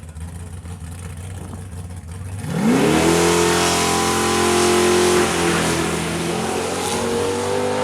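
Drag race car's engine: a low rumble, then about two and a half seconds in the note climbs sharply as it launches and holds at high revs down the strip, dipping slightly about halfway and slowly climbing again.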